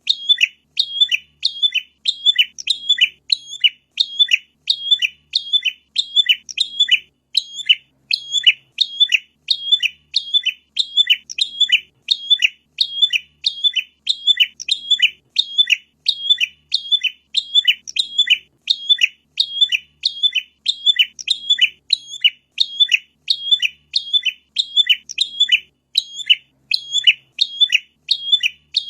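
Prinia (prenjak) song: sharp, high chirping notes repeated about twice a second in an even, unbroken run, played as a masteran training recording to get captive birds singing.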